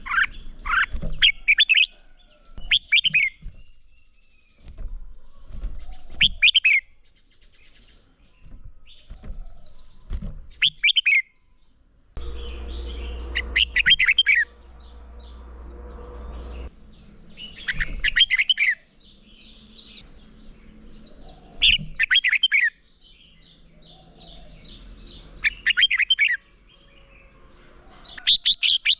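Red-whiskered bulbul in loud competitive song: short, rapid whistled phrases repeated every second or two, with fainter high chirps between them. A low hum runs under the song for about four seconds midway.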